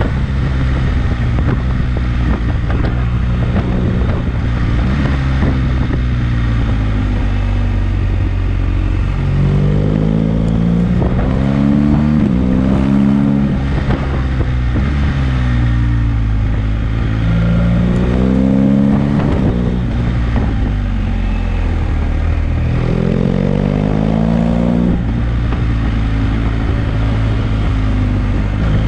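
BMW GS boxer-twin motorcycle engine running on the move, its pitch climbing and dropping several times in the second half as the rider opens and closes the throttle through a run of bends, over steady wind and road noise.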